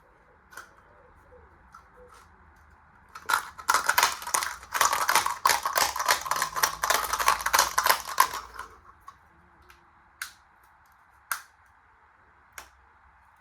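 A £1 coin rattling and clanking inside a running washing machine drum: a dense burst of sharp metallic clicks for about five seconds, then a few single clicks, over a faint steady motor hum.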